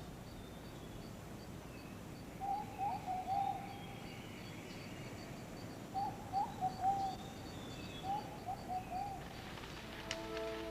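Rainforest ambience: a bird calling in three short bursts of quick warbling notes, over a faint, steady high-pitched ticking about four times a second. Music comes in near the end.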